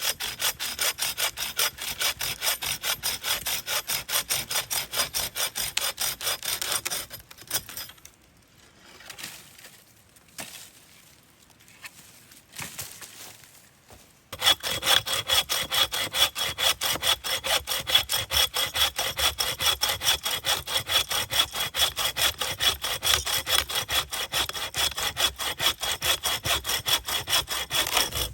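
Hand saw cutting through wood in rapid back-and-forth strokes, about four a second. It saws for about seven seconds, pauses with a few scattered knocks, then saws steadily again from about halfway through.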